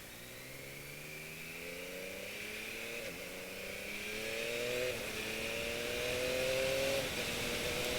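Yamaha MT-09's three-cylinder engine accelerating, its pitch climbing and growing louder. The pitch breaks briefly about three, five and seven seconds in as it shifts up through the gears.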